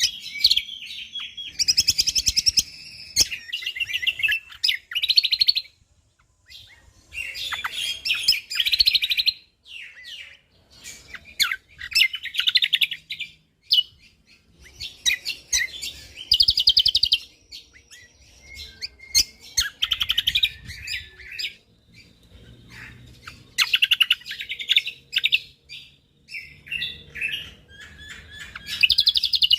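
Cucak kombok (kecial kombok) songbird singing in rapid bursts of dense, high chirps and trills, each lasting a second or a few seconds, with short pauses between.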